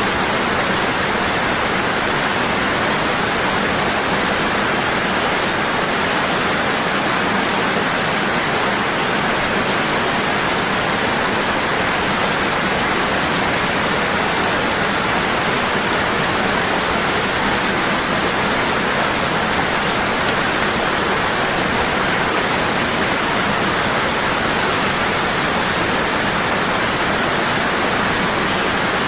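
Waterfall, water falling hard and steady in an even rushing noise with no breaks.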